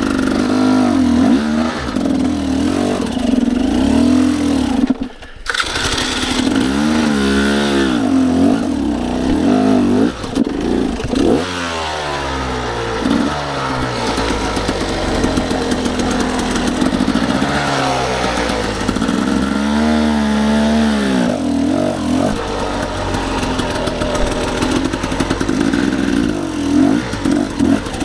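Dirt bike engine revving up and down again and again, its pitch rising and falling with the throttle as the bike works along a rough trail. The sound drops out briefly about five seconds in.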